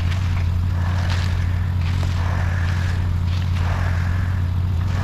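Concrete mixer truck's diesel engine running steadily with a low drone, with a higher swishing sound coming and going about every second.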